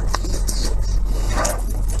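Close-miked chewing and mouth sounds of a person eating, with a few short crunchy, wet bursts over a steady low hum.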